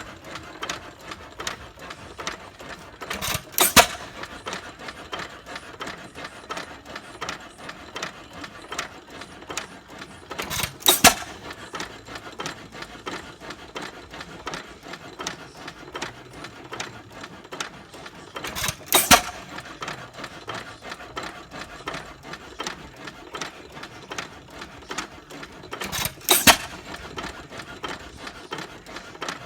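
6 hp Associated hit-and-miss engine running, firing four times about every seven and a half seconds and coasting between fires with a fast light clicking.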